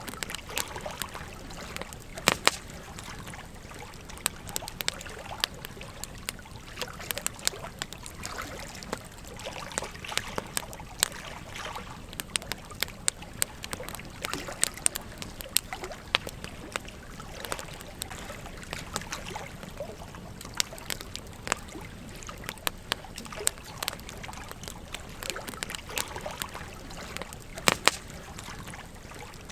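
Campfire crackling with frequent sharp, irregular pops over the steady babble of a gentle stream; the loudest pops come about two seconds in and near the end.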